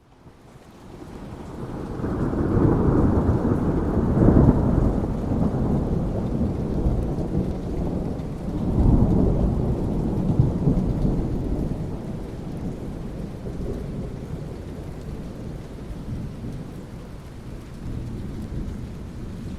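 Thunder rumbling over steady rain. The rumble swells in over the first couple of seconds, peaks about four seconds in and again about nine seconds in, then dies away, leaving the rain.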